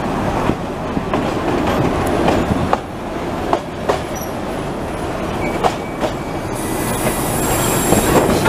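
Narrow-gauge railway carriage rolling along the track, heard from aboard, with the rumble of the running gear and irregular clicks from the wheels on rail joints. A high-pitched squeal with a hiss comes in near the end.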